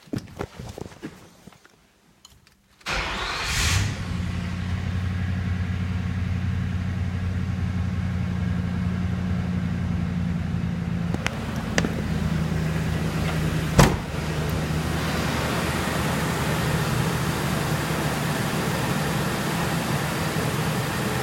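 Ford 4.6-litre V8 engine starting about three seconds in, with a brief rise in speed as it catches, then idling steadily for the rest of the run test. A few sharp clicks come near the middle.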